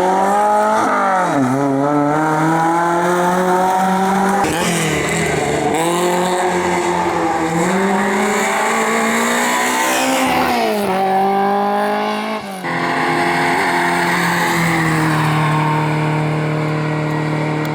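Race car engine at full throttle on a hillclimb, the note rising through the revs and dropping back at each gear change several times, with tyre squeal. About two thirds of the way in the sound cuts abruptly, and the engine then holds a steady high note.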